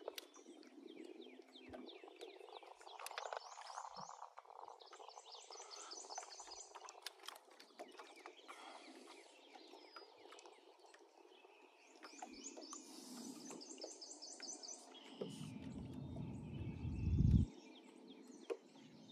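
Quiet outdoor ambience with birds singing, including two runs of fast trilled notes. A low rumble of about two seconds near the end is the loudest sound.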